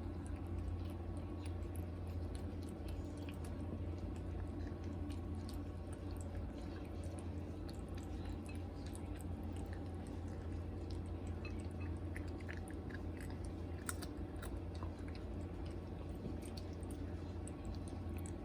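Cat chewing and eating his food, a stream of small irregular clicks and smacks. A steady low hum runs underneath.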